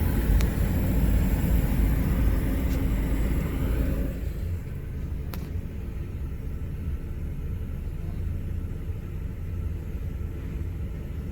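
Hotel room heat pump's outdoor condenser unit running: variable-speed compressor and condenser fan giving a steady low rumble and hum, which drops in level about four seconds in. The discharge pressure is creeping up toward 500 PSI because the unit is drawing its own hot exhaust air back in.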